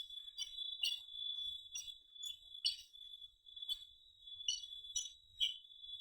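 Close-up eating sounds: short wet chewing and mouth noises about twice a second. A steady high-pitched whine runs under them.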